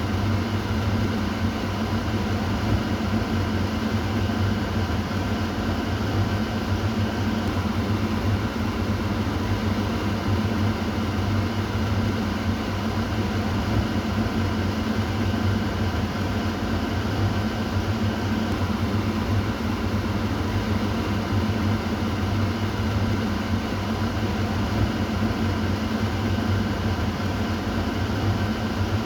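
Kitchen exhaust fan running steadily: an even whooshing noise over a low hum.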